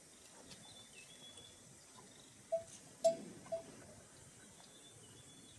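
A livestock neck bell clanking three times in quick succession about halfway through, each strike ringing briefly.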